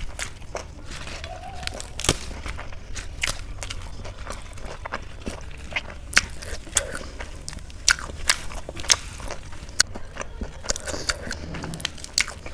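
Someone chewing and biting food: irregular wet mouth clicks and crunches, several of them sharper and louder, over a low steady hum.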